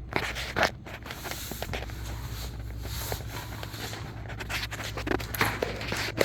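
Scraping and rustling with many light clicks and knocks, like handling and movement noise.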